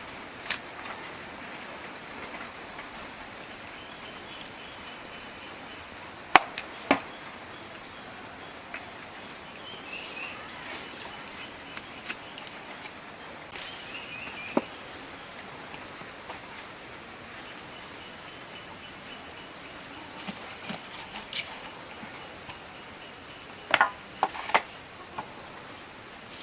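Outdoor ambience with a steady hiss, short bird chirps now and then, and a few sharp knocks or taps. The loudest knocks are a pair about six and a half seconds in and a cluster near the end.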